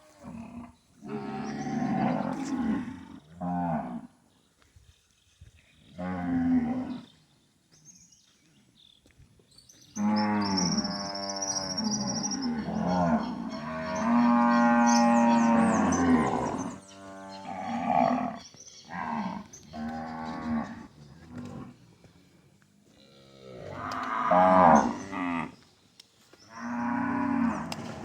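Zebu cows mooing repeatedly: a series of lowing calls, short ones at first, then a long one held for several seconds about a third of the way in, and more calls toward the end.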